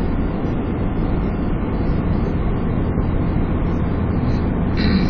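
Steady in-cabin drive noise of a car moving slowly along a snow-covered road: a continuous low engine and tyre drone with an even rush of noise over it.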